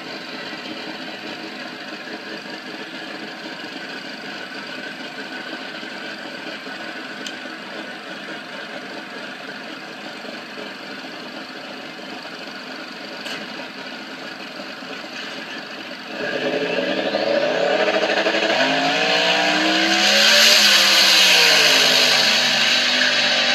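Twin-turbo dragster engine running steadily. About sixteen seconds in it gets louder and revs up and back down, with a high whine rising as it does.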